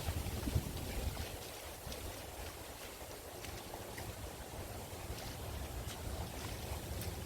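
Wind buffeting the microphone: an uneven low rumble under a steady hiss, with a few faint ticks.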